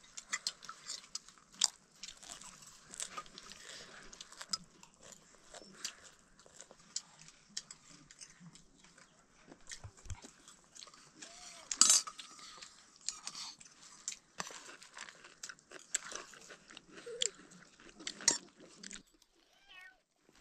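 Crunchy snack being chewed: irregular crunches and crackles, with one louder crack about twelve seconds in.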